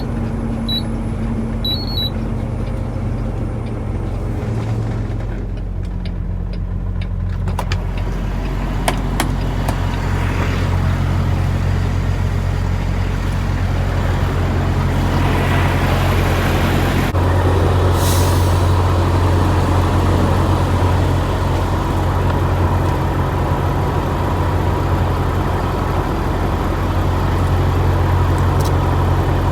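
Semi truck's diesel engine running steadily, growing louder and busier partway through. Near the start come three short high beeps from the truck's Bendix safety system, which has been beeping sporadically since the truck wash, perhaps from water getting in. A short air hiss comes about two-thirds of the way in.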